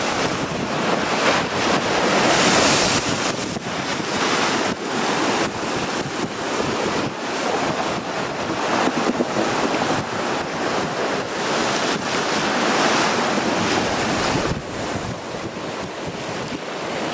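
Strong gale-force wind buffeting the microphone in gusts, with a steady roar of surf underneath; the loudest gusts come about two seconds in and again near the thirteenth second.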